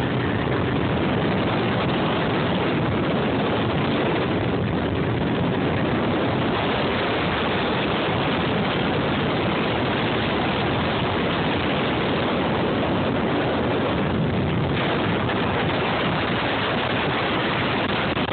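A motorboat under way: an unbroken rushing noise of engine and water.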